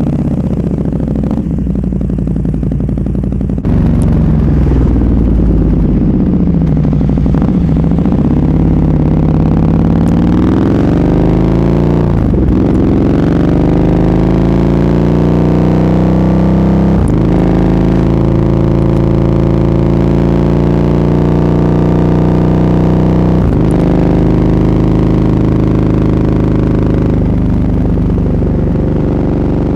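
Motorcycle engine with an SC-Project aftermarket exhaust running under way. Its pitch falls, then climbs several times, with brief breaks and pitch drops like gear changes between steadier stretches.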